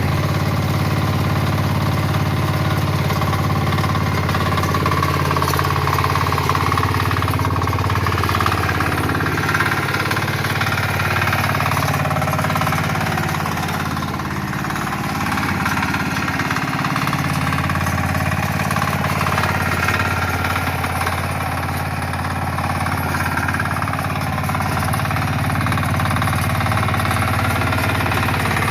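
Kama diesel engine of a power weeder running steadily with a hard, rapid clatter. It eases off slightly about halfway through, then picks up again.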